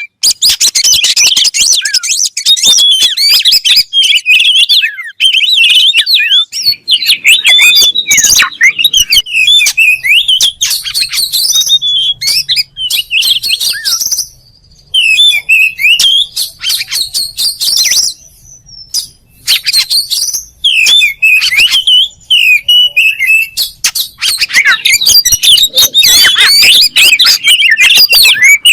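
Oriental magpie-robin singing a loud, fast, varied song of rapid chirps and whistled phrases, with brief pauses about halfway through.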